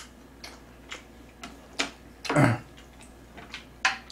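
Close-miked chewing of noodles: short wet smacking clicks about twice a second, with a louder thump a little past halfway and a sharp click near the end.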